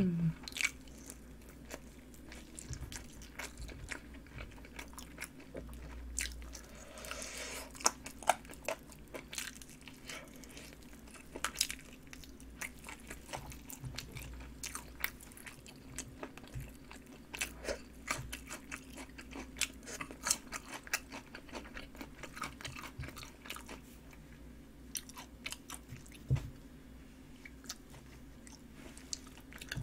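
Close-miked chewing of chicken drumstick meat: irregular wet mouth clicks and smacks with scattered small crunches.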